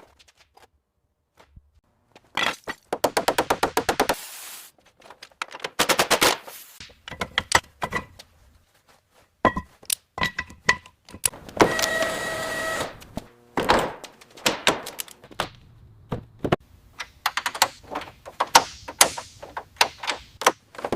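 A run of workshop tool noises: knocks and thuds, fast runs of rattling clicks like a ratchet or impact driver, and a short steady electronic tone about twelve seconds in.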